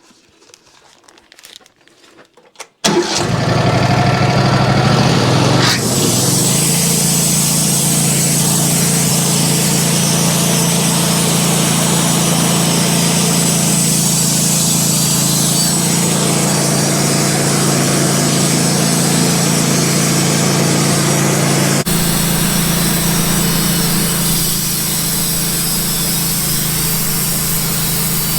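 Stihl MS500i chainsaw starting about three seconds in, revving up and then running at steady high revs as it cuts into the end of a maple log.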